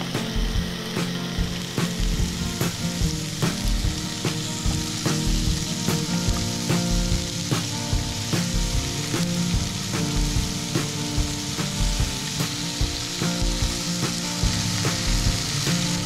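Chicken drumsticks sizzling in hot oil in a nonstick frying pan, with a steady frying hiss. More pieces are laid in and moved with metal tongs, adding short clicks and taps.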